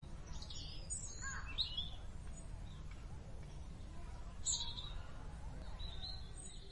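Birds chirping and calling over a low steady background hum: a cluster of short, high calls in the first two seconds, another midway, and more near the end.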